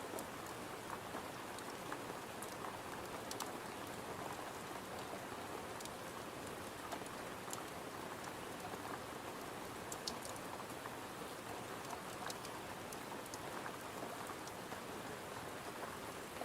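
Steady rain falling, mixed with a crackling wood fire in a fireplace: an even hiss with scattered sharp crackles and ticks.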